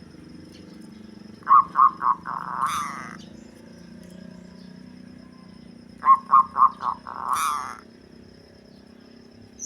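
Zebra dove (local perkutut) cooing twice, about four and a half seconds apart. Each phrase is three or four quick staccato notes followed by a longer rolling coo.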